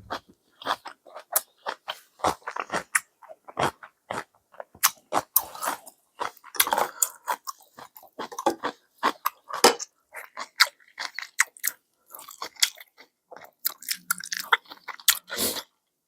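A person chewing food close to the microphone, most likely ramen: an irregular run of wet smacks and small mouth clicks, one after another, with no speech.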